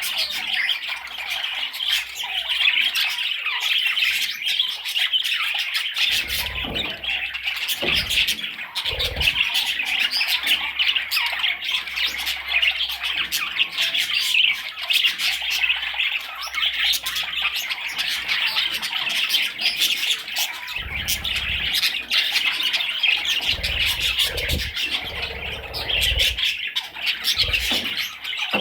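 Budgerigar chattering and warbling nonstop, a dense run of quick squawks, chirps and clicks, with a few soft low thumps scattered through it.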